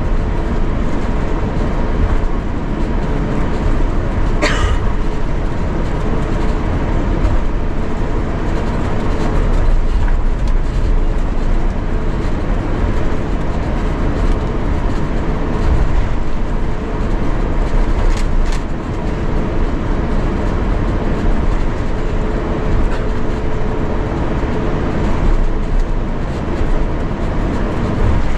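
Steady low cabin rumble inside an Airbus A350-900 on the ground, with a faint steady hum over it. Two brief clicks, about four and a half seconds in and about eighteen seconds in.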